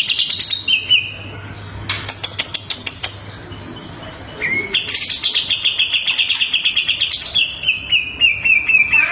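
Songbird singing fast trills of repeated high notes, with a spell of sharp clicking calls in the middle. About two thirds of the way in, a long trill steps down in pitch.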